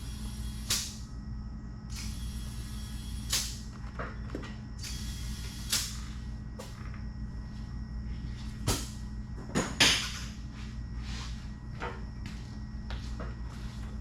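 Scattered knocks and clunks, about eight in all and the loudest a sharp double knock about ten seconds in, over a steady low hum.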